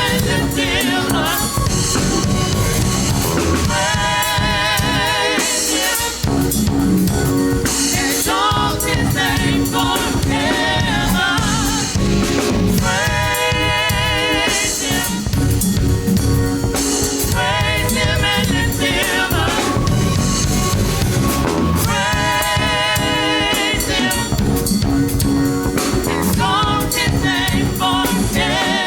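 Gospel worship music: a vocalist singing phrases with vibrato over drum kit and bass.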